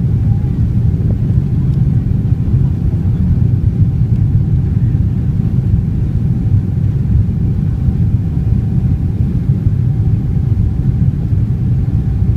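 Steady low rumble of engine and airflow noise inside the cabin of a Boeing 777-300ER, with a faint steady hum above it.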